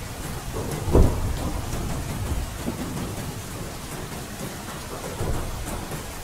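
Steady rain falling, with low rumbles of thunder underneath. A short, louder low thud comes about a second in, and a smaller swell a little after five seconds.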